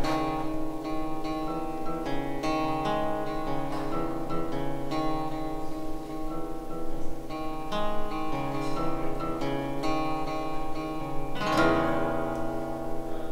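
Acoustic guitar playing an instrumental passage of a song, notes changing every second or so, with one louder strum near the end.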